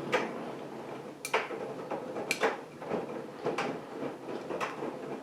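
AEG Lavamat 7 kg front-loading washing machine in its wash cycle: the drum turning, with wet laundry and water swishing over inside it about once a second over a steady running sound.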